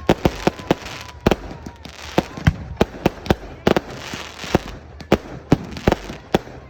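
Fireworks display: an irregular, rapid run of sharp bangs and crackles, several a second, with a faint whistle trailing off about a second in.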